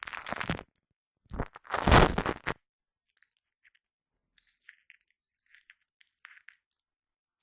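Shaving foam squished and worked close to a condenser microphone, giving dense crackling bursts in the first half second and again around two seconds in, then only faint scattered crackles.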